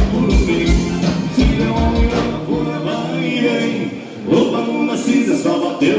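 Live gaúcho dance band music, accordion-led, with singing over a steady kick-drum beat; the drum drops out a little before halfway.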